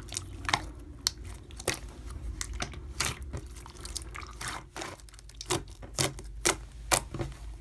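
Slime being squeezed and poked by hand, giving irregular wet clicks and pops.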